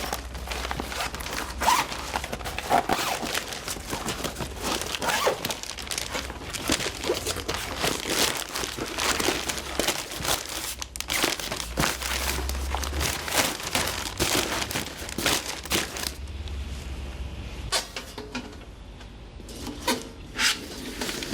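Crinkling and rustling as the parts of a metal fire pit are packed into their storage case, with light knocks. It is busy for most of the time, then eases off to a few separate knocks near the end.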